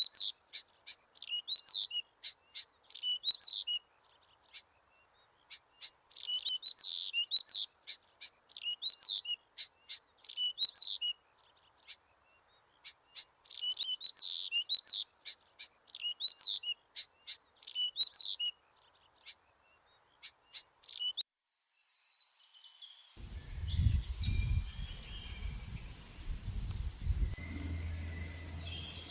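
A songbird singing bouts of quick, high chirping phrases, each a few seconds long, with pauses between. About three-quarters of the way through the song cuts off suddenly, and a steady rushing outdoor noise with low rumbling follows.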